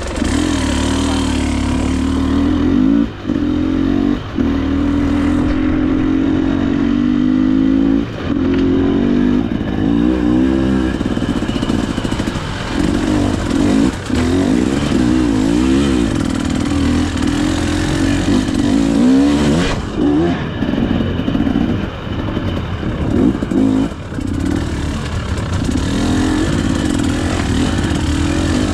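KTM EXC 300 two-stroke dirt bike engine being ridden, its revs rising and falling constantly with the throttle, with a few short cuts in power in the first several seconds.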